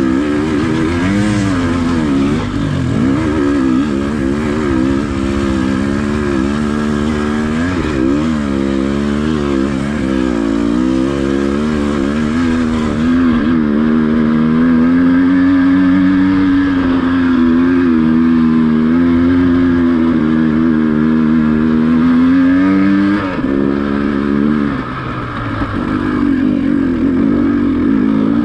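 Dirt bike engine pulling under load, its revs rising and falling with the throttle for the first dozen seconds, then held steady for about ten seconds before dropping off briefly near the end and picking up again.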